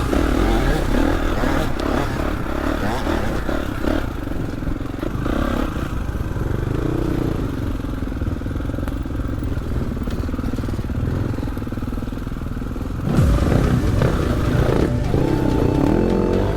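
Kawasaki KX450 dirt bike's engine running while riding a trail. The revs rise and fall, and it gets louder about thirteen seconds in.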